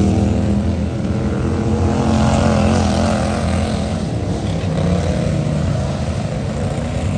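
Race car engines running at speed, a steady loud drone whose pitch wavers up and down as the cars circle. These are plausibly the motorcycle-engined micro sprint cars out on the dirt track for practice.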